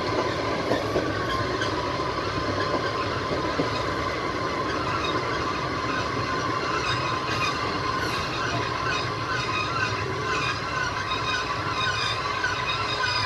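Train wheels running on the rails, heard from inside a moving passenger carriage at the window: a steady rolling noise with a held tone. Brief high squeals are scattered through it, more often from about halfway.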